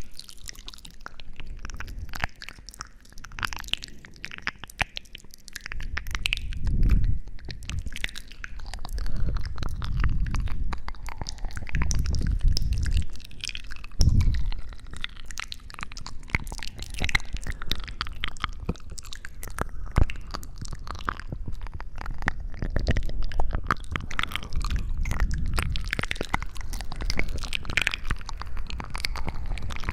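Close-miked ASMR trigger sounds: dense crackling and clicking over muffled low rubbing swells that come and go every few seconds.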